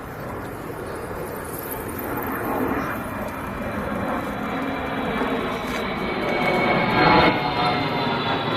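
Airshow aircraft engine noise growing steadily louder as the plane approaches, with a high whine that sinks slightly in pitch near the end.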